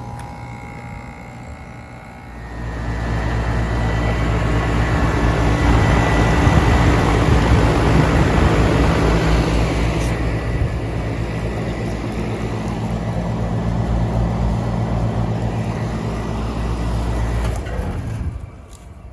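Outdoor condensing unit of a central air-conditioning system kicking on about two seconds in, its compressor humming and condenser fan running steadily, then shutting off shortly before the end. It has run well under a minute, which may be short cycling.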